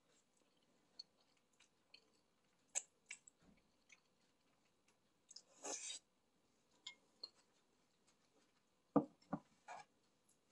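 Close-up eating sounds of Korean black-bean noodles: soft, wet chewing and lip-smack clicks, with a short noisy slurp about halfway through. Two sharp knocks sound near the end.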